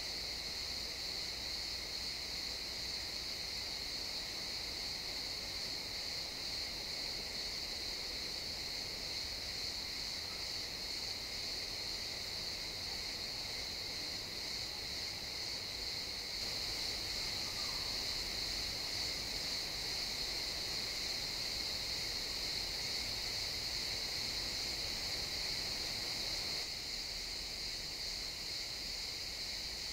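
Chorus of crickets chirping in a continuous high-pitched trill, swelling slightly for about ten seconds from just past the middle.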